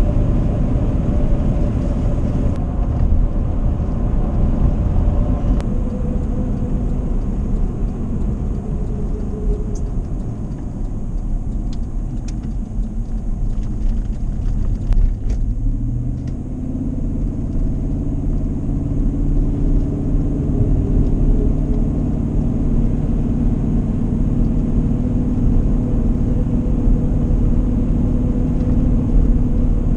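Truck driving: steady low engine and road noise, with the engine note shifting about halfway through.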